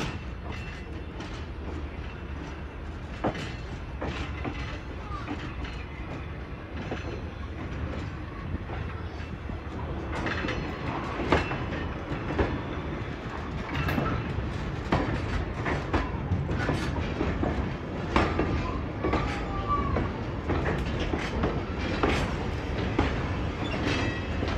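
Railroad cars and cabooses rolling slowly past close by: a low rumble with irregular clicks and knocks from the steel wheels on the rail joints. It gets louder as the cars come alongside, with a short squeal near the end.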